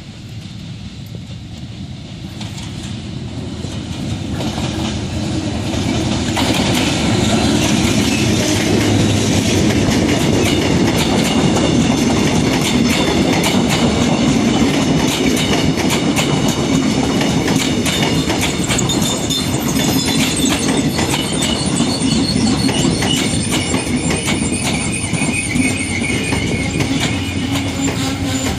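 Saemaeul express train hauled by a diesel locomotive approaching and rolling past along the platform. It grows louder over the first six or seven seconds, then the coaches pass with a steady wheel rumble, rail-joint clickety-clack and a high wheel squeal.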